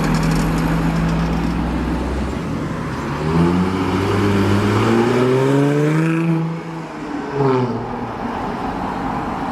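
Jaguar F-Type sports car engine and exhaust running steadily, then accelerating hard with the pitch rising for several seconds, lifting off about six and a half seconds in, followed by a short blip of revs.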